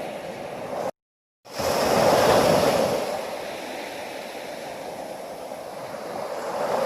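Ocean surf: steady wash of waves that cuts out to total silence for about half a second, about a second in, then comes back with a louder wave breaking before settling to a steady wash again.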